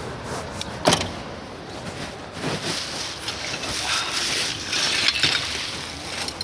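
A sharp knock about a second in, then gritty scraping and rattling of hand tools working loose pothole-patching material, over steady street traffic.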